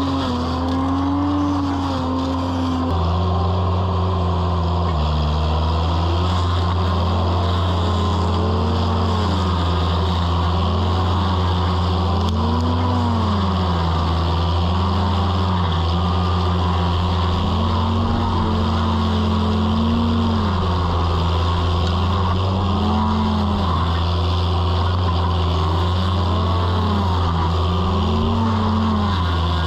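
Toro mini skid steer running with its stump grinder attachment: a steady engine drone, with a higher whine that dips and rises in pitch every second or two, as the load comes on and off.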